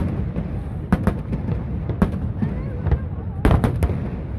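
Aerial fireworks bursting overhead: sharp, echoing bangs about once a second, with several in quick succession about three and a half seconds in, over the chatter of a large crowd.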